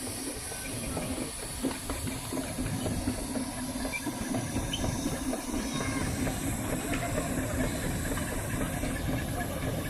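Steam traction engine running with a steady hiss of steam and a faint low drone.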